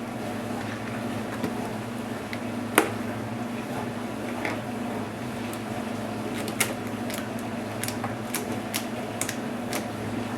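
Scattered sharp clicks and taps of small plastic and metal laptop parts being handled during disassembly: one loud click about three seconds in, then a run of lighter clicks in the second half, over a steady low electrical hum.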